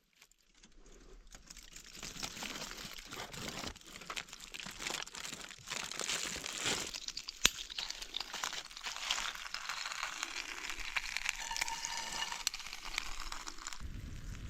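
Dense crackling and crinkling noise, building up over the first two seconds and then holding, scattered with sharp clicks and one loud snap about halfway through.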